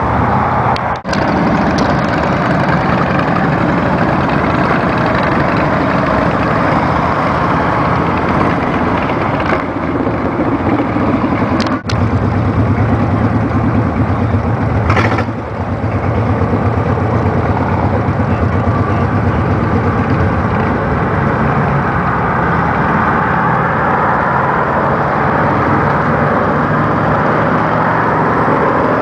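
Motorcycle engine running at road speed under a steady rush of wind. The engine note dips briefly about a second in, around twelve seconds and again around fifteen seconds, then carries on steadily.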